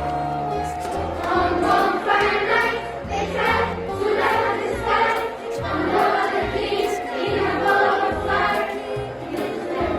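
A group of voices singing a song in chorus over instrumental backing with a moving bass line.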